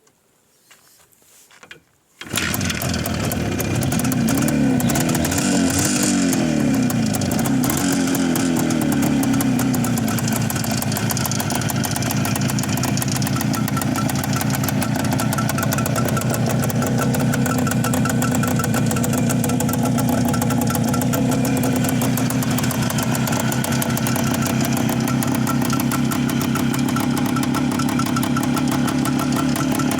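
IZh Jupiter-4 motorcycle's two-stroke twin-cylinder engine starting about two seconds in, revved up and down a few times, then settling into a steady idle.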